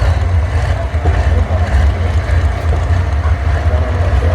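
Heavy pulling-tractor engine running steadily, a loud, deep, unbroken rumble.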